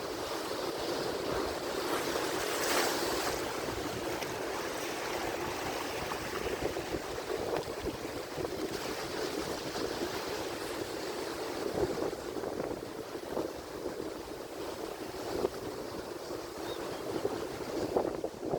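Atlantic Ocean surf: a continuous wash of breaking waves, with a louder wave crashing about three seconds in and smaller swells after.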